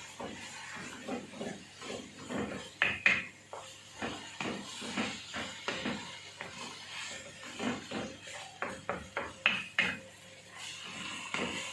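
Kitchen utensils knocking and scraping on dishware and a board in an irregular run of taps, with two louder clatters about three seconds in and near ten seconds.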